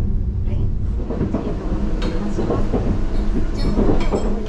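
Saphir Odoriko E261-series electric train running on the rails with a steady low rumble, and a few short sharp clicks from about two seconds in.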